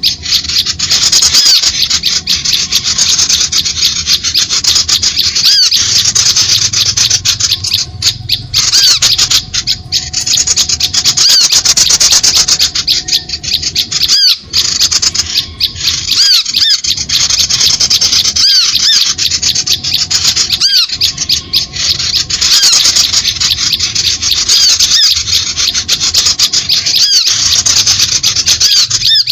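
Bird-trapping lure call of small birds: loud, harsh, dense high-pitched chattering and scolding with rapid squeaky chirps, broken by brief gaps every second or two.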